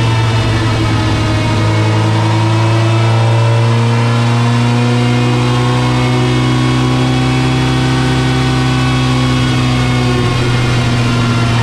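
Peugeot 205 S1400's newly built 1.4-litre 16-valve TU3 four-cylinder engine running loud under load on a rolling road, driving the front wheels against the rollers. Its pitch rises gently for a few seconds, then eases back.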